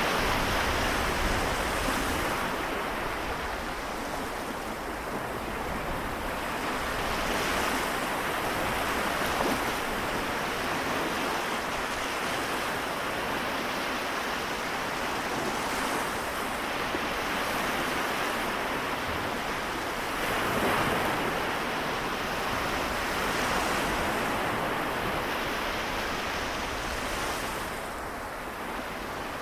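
Small waves washing onto a Seto Inland Sea shore, a steady rush of surf that swells and eases every few seconds.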